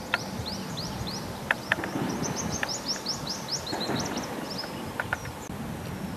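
A bird singing a long run of quick, short, downward-slurred high notes, about four a second, fading out around four and a half seconds in. Steady outdoor background noise runs underneath, with a few sharp ticks.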